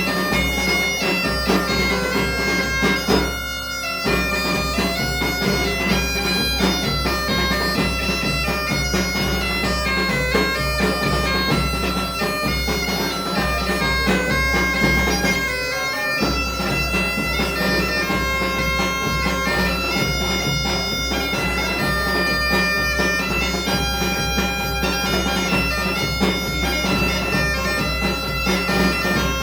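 Galician bagpipe (gaita) playing a lively tune over its steady drone, with a drum keeping a regular beat underneath.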